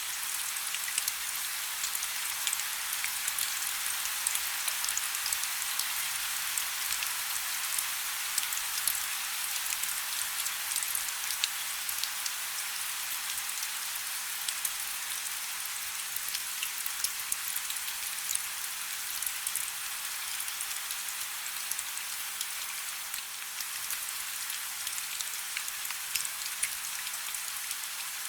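Steady rain falling, a dense hiss scattered with many small drop ticks.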